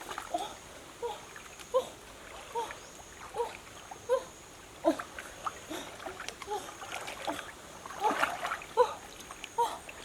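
Small water splashes and plops, a few each second and irregular, with a busier stretch near the end. A faint steady high-pitched tone runs underneath.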